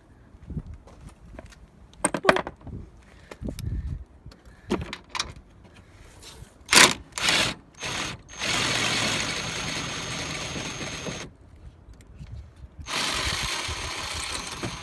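A cordless drill/driver runs twice for about three seconds each, spinning out the radiator mounting bolts. Metal clanks and knocks from tools and parts come before it.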